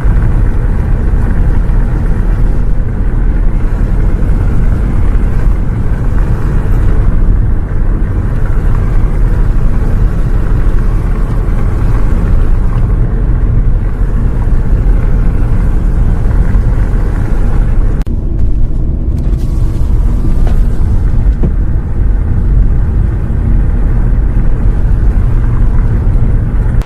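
Bus running on the road, heard from inside: a loud, steady low rumble of engine and road noise that cuts off suddenly at the end.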